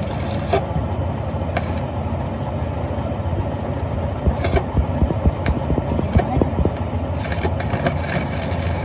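A machine running steadily with a low hum, with a run of short irregular knocks in the middle.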